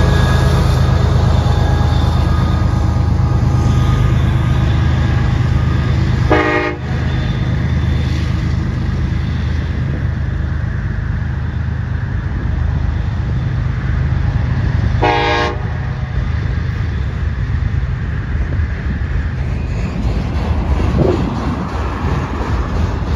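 CSX freight train passing: diesel locomotives running with a heavy low rumble that eases as they go by, then autorack cars rolling past. Two short horn toots, one about six seconds in and another about fifteen seconds in.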